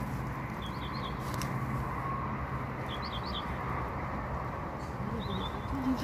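A small bird chirping in three quick runs of three or four high notes, about two seconds apart, over a steady low background hum.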